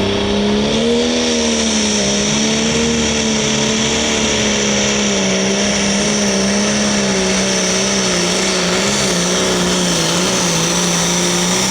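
John Deere 4010 super stock pulling tractor under full power during a pull, its engine running hard at a near-constant pitch that wavers slightly, with a steady high whine above the engine note.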